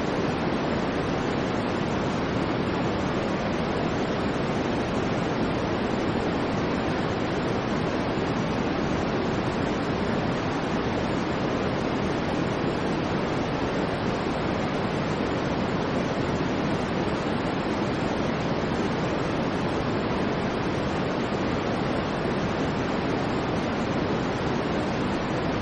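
Generated white noise: a steady, unchanging hiss, heaviest in the low middle range, with no change in level.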